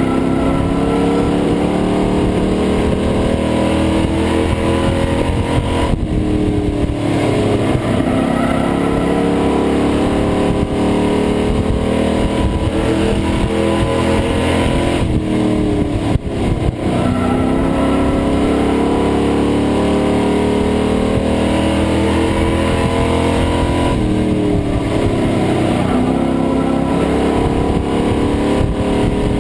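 Pro Truck racing engine at full racing speed, heard from inside the cab. Its revs drop and climb again in a repeating cycle about every ten seconds as the truck lifts off and accelerates around the track.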